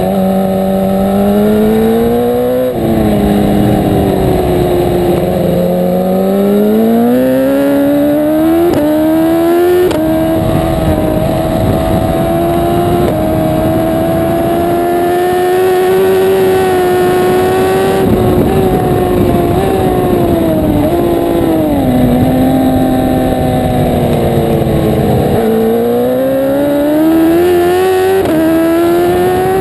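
1000 cc superbike engine under race load, revving hard. Its pitch climbs, drops in steps at gear changes, holds high for several seconds, falls away under braking about two-thirds of the way in, then climbs again near the end.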